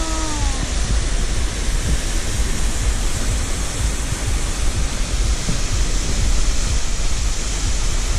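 Wind gusting across the microphone in a snowstorm: a loud, steady rushing hiss over an uneven low buffeting rumble.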